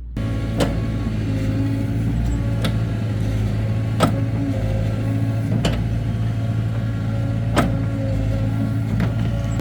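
Heavy diesel machinery engine running steadily, with six sharp knocks spaced every one and a half to two seconds over the hum.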